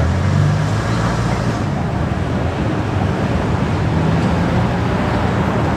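Steady road and traffic noise of a car driving, with a continuous low hum.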